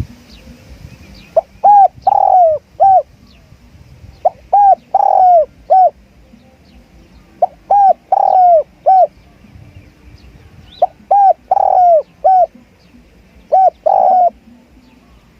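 Spotted dove cooing its repeated multi-note call, about five phrases each a few notes long with a longer slurred note in the middle, spaced about every three seconds.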